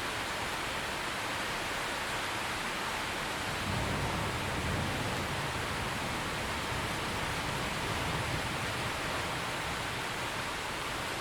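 Steady heavy rain falling, a dense even hiss, with a low rumble of distant thunder swelling about four seconds in and more faintly later.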